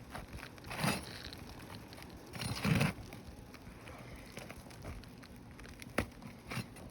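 A flat bar prying and scraping under old, brittle roof shingles, the shingle crackling as it cracks and tears. Two louder scrapes come about one and three seconds in, and a sharp click or knock comes near the end.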